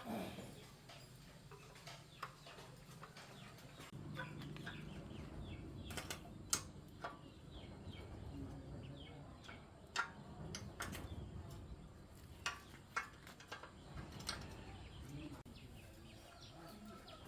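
Irregular sharp clicks and clinks of hand tools and small metal parts being handled on an engine, with birds chirping faintly in the background.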